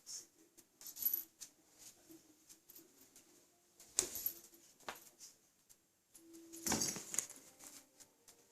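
Cats playing with a string: scattered light clicks, scrabbling and jingly rattles, with louder flurries about a second in, around four seconds, and a longer one around seven seconds.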